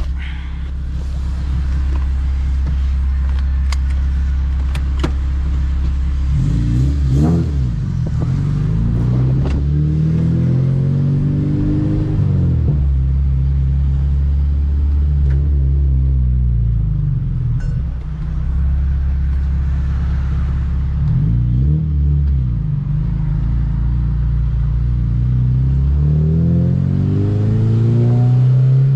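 2007 Honda Civic Si's 2.0-litre four-cylinder engine running steadily, then revving up several times as the car accelerates, the pitch climbing and dropping back between pulls.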